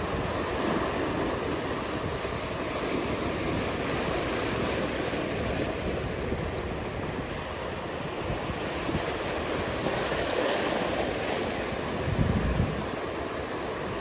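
Ocean surf: a steady rushing wash of breaking waves, with wind buffeting the microphone and a brief low rumble about twelve seconds in.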